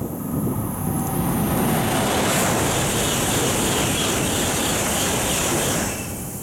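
Tohoku Shinkansen train passing at high speed: a rush of air and rail noise that builds quickly, holds with a strong hiss for a few seconds, then drops off sharply near the end.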